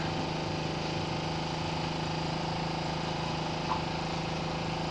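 A small engine running steadily at constant speed, an even hum that does not change.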